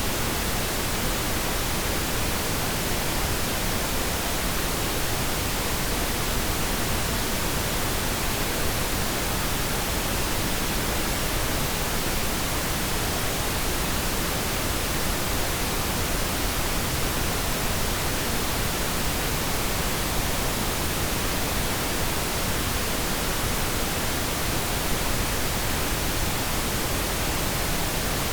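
Synthetic pink noise: a steady, even hiss that spreads across all frequencies without change.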